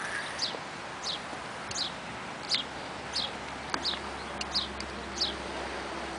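A small bird chirping over and over, short high notes that drop in pitch, roughly one every 0.7 seconds, over a steady background hiss.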